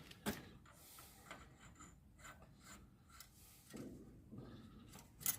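Faint rubbing and scraping with scattered light clicks, as parts and tools are handled, and a sharper click near the end.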